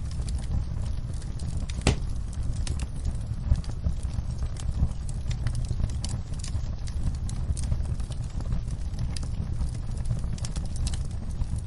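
Wood fire in a fireplace crackling: irregular sharp pops and snaps over a steady low rumble, with one louder pop about two seconds in.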